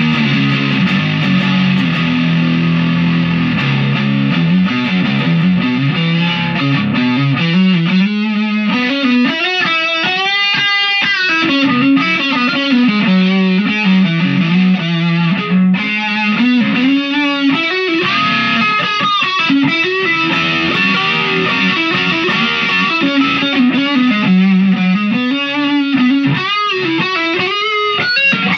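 Chapman SAR63 electric guitar played through a distorted amp. Held chords for the first few seconds, then a lead line with bent notes and vibrato.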